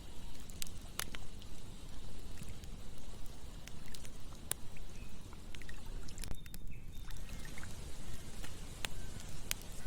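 Campfire burning: a low, steady rumble with scattered sharp crackling pops from the burning wood.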